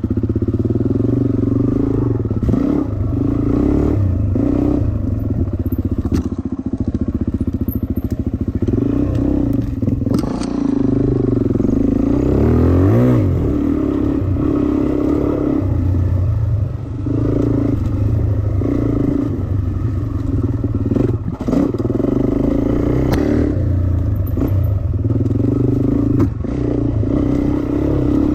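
Dirt bike engine running under load, its revs repeatedly rising and falling with the throttle, with one clear climb in revs about halfway through.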